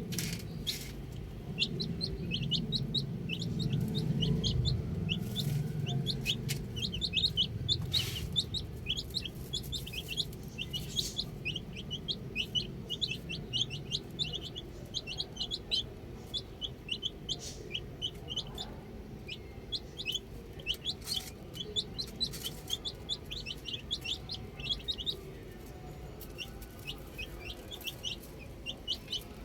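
A group of baby chicks peeping without pause: many short, high chirps, each sliding downward, overlapping one another. A low rumble sits under the chirps for roughly the first third.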